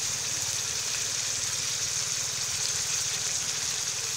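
Fish stir-fry sizzling in a hot wok: a steady, even hiss.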